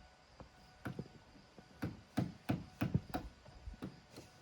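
Irregular run of sharp hammer-like knocks, about eight blows in three seconds, the loudest bunched in the middle.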